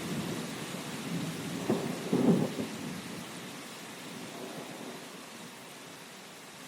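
Thunderstorm: steady rain with rolling thunder, and two sharp thunder cracks about two seconds in, after which the rumble dies away under the rain.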